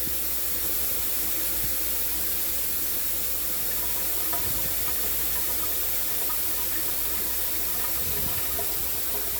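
Shower spray running steadily as a fine misting hiss, falling on a parrot and the person holding it.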